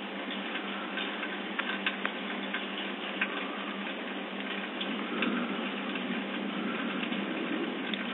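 Steady thunderstorm rain with scattered drips ticking irregularly.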